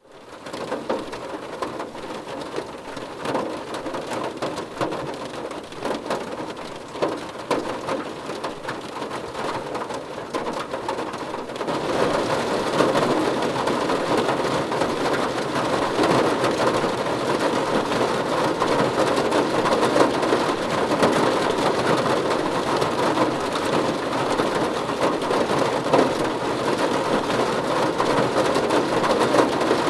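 Steady rain falling, with individual drops tapping. It grows louder and denser about twelve seconds in.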